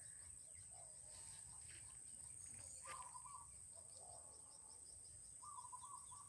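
Near silence outdoors: a faint, steady high-pitched insect drone like crickets, with a few faint short bird chirps, about three seconds in and again near the end.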